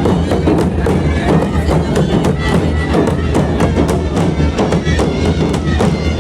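Dhol drums beating a fast, continuous processional rhythm of loud strokes, with a wind instrument playing along above them.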